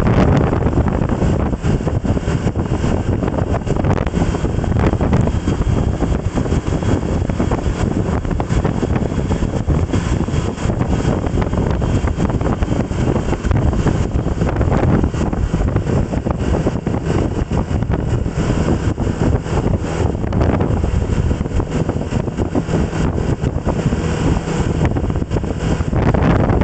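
Wind rushing over the microphone during a ride along a road, with vehicle and road noise under it. The noise is loud and steady, heaviest at the low end.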